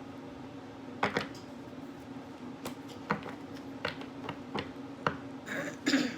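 Tarot cards being handled and laid down: a scatter of light clicks and taps, with a short rustle near the end, over a steady low hum.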